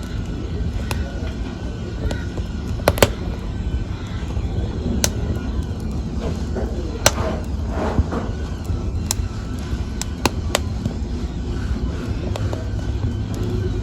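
Wood fire in a fireplace burning with a steady low rumble, crackling and popping with sharp snaps every second or so, the loudest about three seconds in and again about seven seconds in.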